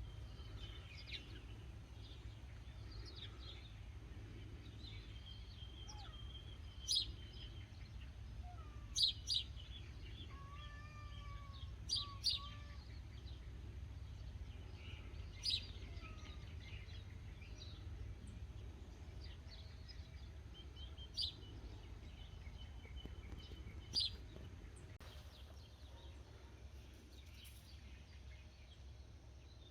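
Birds chirping now and then: a handful of short, sharp high chirps and a few faint whistled notes, over a steady low outdoor rumble.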